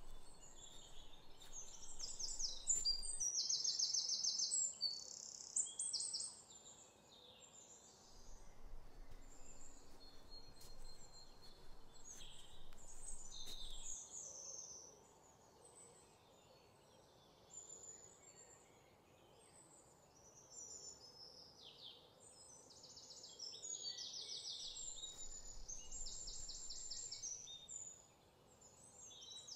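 Birds singing: a mix of high chirps and fast trills from several birds, with quieter stretches between bouts, over a faint steady background hiss.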